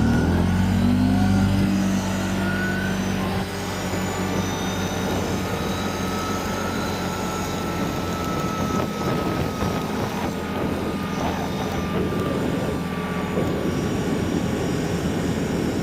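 A vehicle engine running as the vehicle pulls away: the engine note rises over the first couple of seconds, then holds steady as it drives along.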